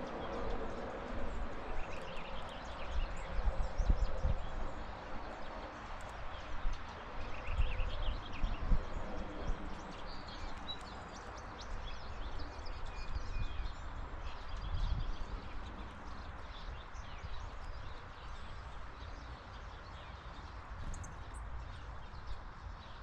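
Outdoor ambience with faint, scattered bird chirps over a steady hiss, and uneven low thumps and rumble.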